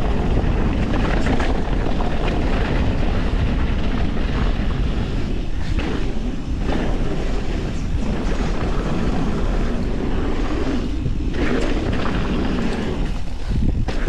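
Wind rushing over the camera microphone and tyres rolling on a dirt trail as a mountain bike descends at speed. The noise is steady and loud, easing briefly a few times.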